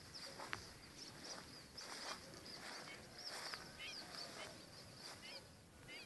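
Small birds chirping and twittering, with many short, high calls overlapping and several rising-and-falling trilled calls in the second half.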